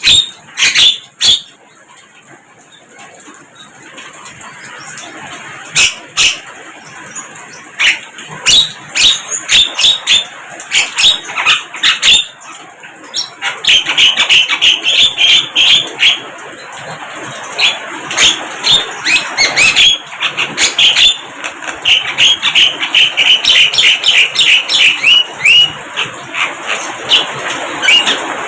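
Sikatan londo flycatcher calling: many short, sharp chirps and clicks in irregular bursts, turning into fast runs of high chirps from about halfway through.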